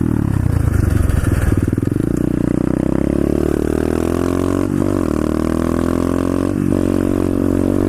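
125cc SSR pit bike's single-cylinder four-stroke engine pulling away and accelerating, pitch climbing in each gear, with two brief breaks for upshifts: one a little past halfway and one near the end.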